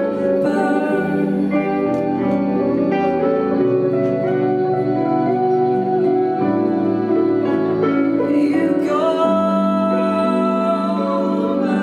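A live band playing an instrumental passage of a slow song, with long held chords that change every second or two.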